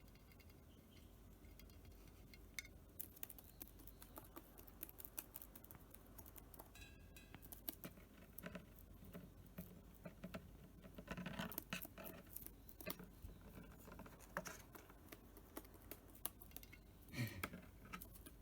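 Cockatiel pecking with its beak, faint irregular clicks and scratches that come thicker in the second half.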